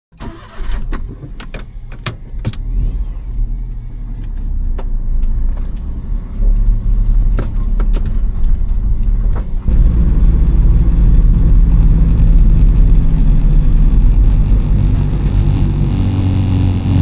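Small kei vehicle's engine running, with a few sharp clicks and knocks in the first seconds. The engine rumble steps up louder about ten seconds in.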